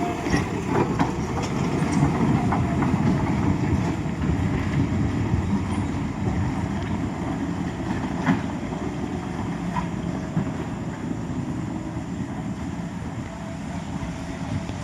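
JCB 3DX backhoe loader's diesel engine running under work, a steady low rumble with a few sharp metallic knocks and clanks now and then, easing off a little near the end.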